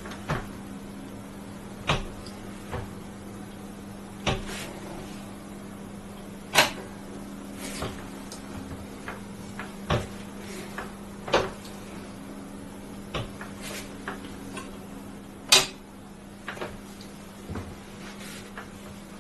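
Scattered sharp clicks and knocks at irregular intervals, about one every second or two, the sound of hard parts being handled or adjusted, over a steady low hum.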